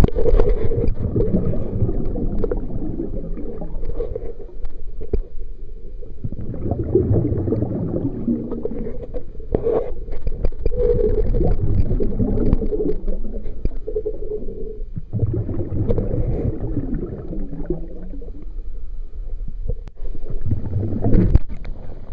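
Lake water gurgling and sloshing, heard muffled through the microphone of a waterproof camera held underwater. It starts with a sharp splash as the camera goes under, then swells and fades in uneven surges.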